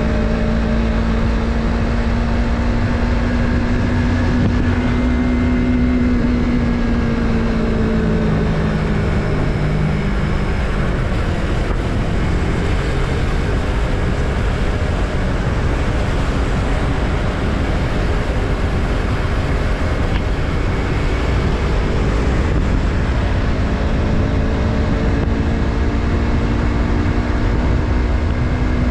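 Yamaha MT-03's parallel-twin engine running at steady throttle, its note dropping away about eight to ten seconds in as the bike eases off. Wind and road rush fill the middle, then the engine note comes back and rises gently near the end.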